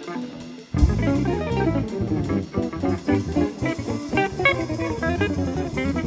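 Instrumental jazz-style band music: a guitar playing quick runs of notes over bass and drums, coming back in strongly after a brief quieter moment at the start.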